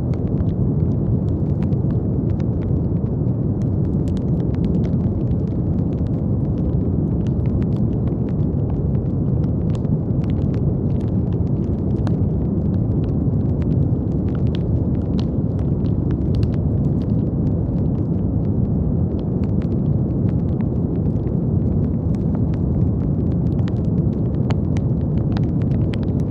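Brown noise: a steady, deep rushing hiss weighted toward the low end, with sparse faint clicks scattered through it.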